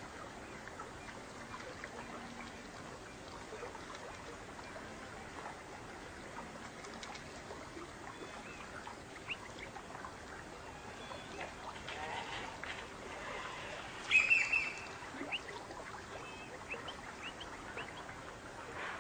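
Wild birds calling: many short, quick chirps throughout, with one louder, harsher call about fourteen seconds in.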